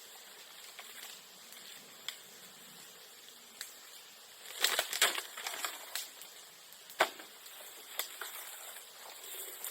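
A bamboo bonfire crackling, with scattered sharp pops and a quick cluster of loud cracks about halfway through.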